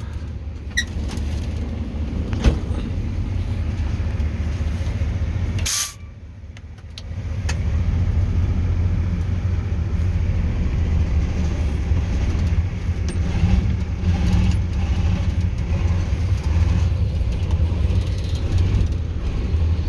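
Narrow-gauge TU6A diesel locomotive's YaMZ-236 V6 diesel engine pulling steadily as the locomotive crawls out onto slippery rails. About six seconds in there is a short sharp burst of noise; the engine sound drops away for a second or so, then comes back steady.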